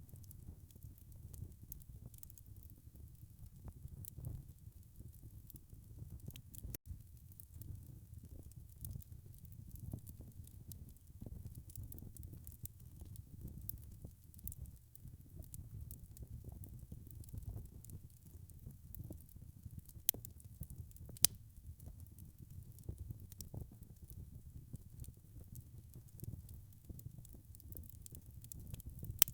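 Wood fire crackling in a fireplace: a steady low rumble of burning logs with scattered small crackles, and two sharper pops about a second apart a little past two-thirds of the way through.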